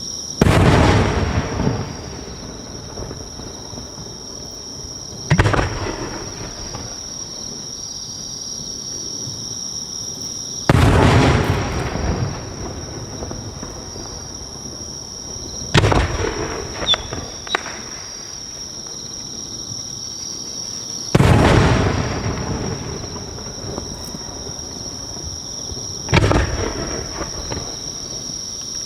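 No. 5 (about 15 cm) aerial firework shells bursting, six booms about five seconds apart, each followed by a rolling echo, with a few small crackles after the fourth. A steady insect chirring runs underneath.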